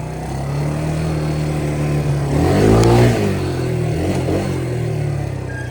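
Small off-road engine running, revving up to a loud peak about three seconds in and then easing back down.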